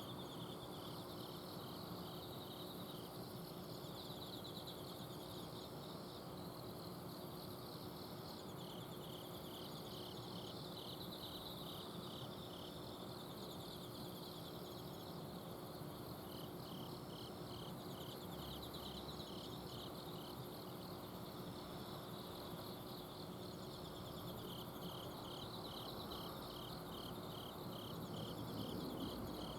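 Several autumn crickets chirping and trilling at night: one gives evenly spaced chirps in runs of several seconds, coming and going, over continuous higher trills. Under them runs the steady hum of an air-conditioner outdoor unit.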